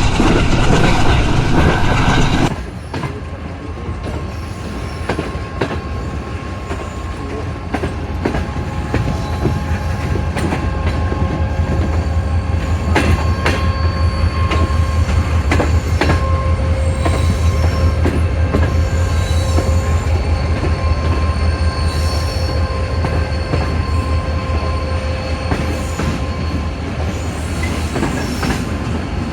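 Passenger train rolling along the track: wheels clicking over rail joints and squealing thinly on the rails, over a low steady throb. The overall sound drops suddenly in loudness about two seconds in.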